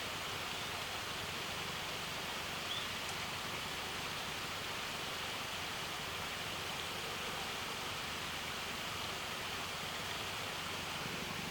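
Steady, even rushing noise with a short faint chirp about three seconds in.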